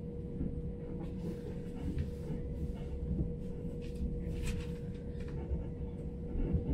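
Electric commuter train running at speed, heard from inside the carriage: a steady low rumble with a constant hum, and a few short, sharp clicks and knocks.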